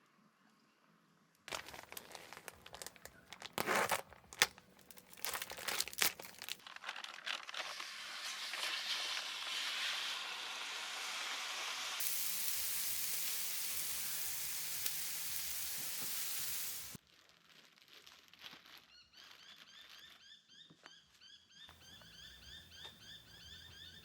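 Crinkling and clicking of something being handled, then a steady hiss that cuts off suddenly, followed by frogs calling in quick repeated chirps.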